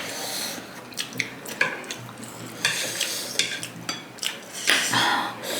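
Tableware clinking and clicking as a seafood boil is eaten, with scattered knocks and brief scraping and rustling sounds, a little louder about five seconds in.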